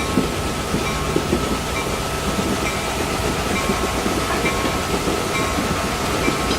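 Passenger train running along the track: a steady rumble and hum with a constant patter of irregular wheel-and-rail clicks and rattles.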